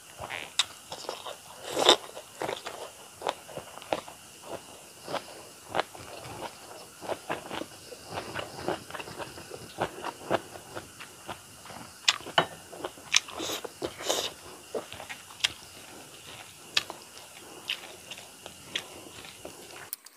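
A person chewing and biting mouthfuls of fish and rice: a string of irregular wet crunches and smacks, the loudest about two seconds in.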